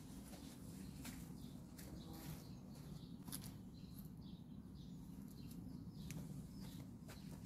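Faint birdsong: scattered short chirps and calls of small birds over a low, steady background rumble.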